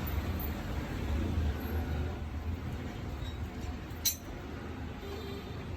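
A single sharp metallic clink about four seconds in, a tool knocking against metal, over a steady low rumble.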